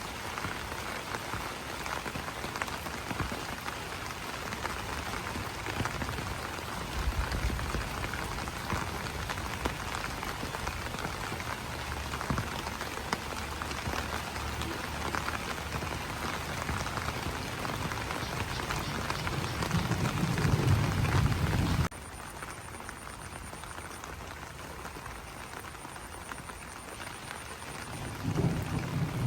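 Rain pattering on broad banana leaves: a dense, steady patter of many drops, with occasional low rumbles underneath. About three-quarters of the way through, the patter cuts abruptly to a softer, quieter rain, as at an edit.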